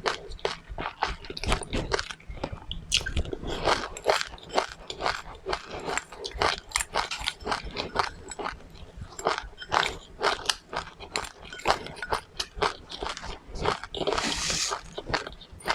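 Close-up chewing of crunchy seeds: a fast run of sharp crackling crunches, several a second, with a brief rushing, noisier burst near the end.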